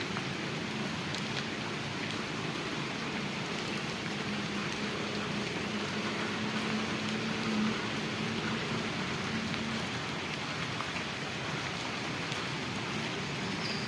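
Rain falling steadily, an even hiss of drops on surfaces, with a faint low hum underneath for most of the stretch.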